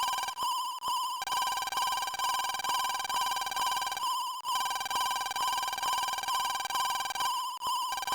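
A high warbling electronic tone, pulsing about two to three times a second without a break, like a telephone ringer.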